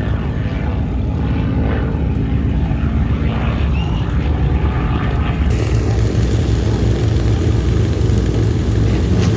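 Propeller airplane's engine running loud and steady overhead, a deep rumble that grows slightly louder about halfway through.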